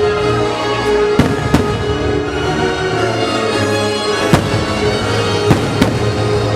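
Fireworks bursting over a loud show soundtrack of music, with about five sharp bangs: a pair a little over a second in, then one more after about four seconds and another close pair later on.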